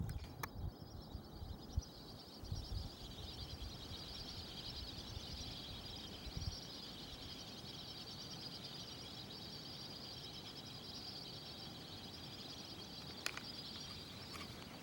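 A large flock of whistling ducks calling together, a continuous din of many high whistles that builds over the first two seconds and then holds steady. A low rumble sits under it for the first few seconds, with a couple of faint clicks.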